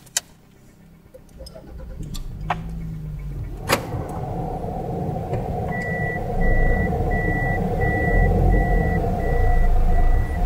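Toyota Estima minivan's engine starting and then running steadily at idle. A few seconds after it settles, a single-pitched warning beep begins, repeating about twice a second.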